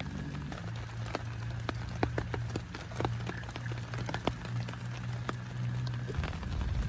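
Rain: scattered large drops tapping irregularly on a surface close by, over a steady low rumble.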